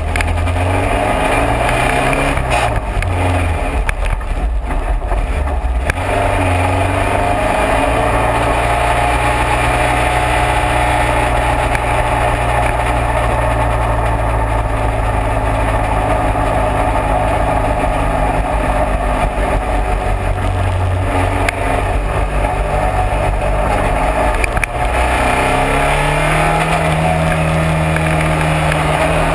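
Classic race car's engine running hard under load at fairly steady revs. The pitch dips and changes a few seconds in, then rises again near the end, as with gear changes.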